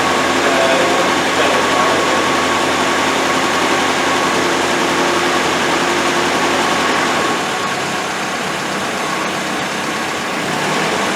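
Freshly rebuilt Land Rover Series 1 engine running steadily at idle shortly after its first start, dropping slightly in level about seven seconds in.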